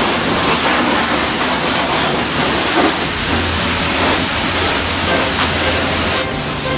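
High-pressure water spray from a touchless truck wash, a loud steady hiss.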